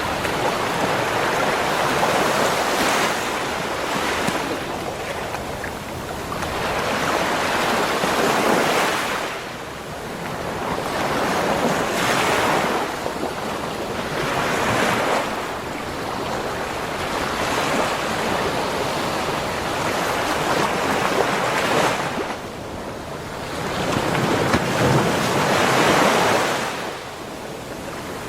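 Ocean surf on a beach: waves breaking and washing up the shore, the rush swelling and falling back every three to five seconds.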